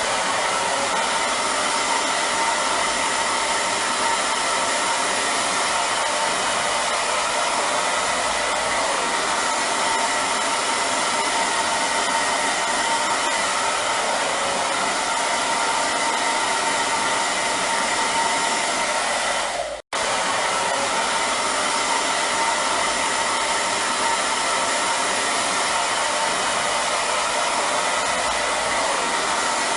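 Hair dryer running steadily: an even blowing hiss with a faint steady whine. The sound drops out for an instant about twenty seconds in, then carries on unchanged.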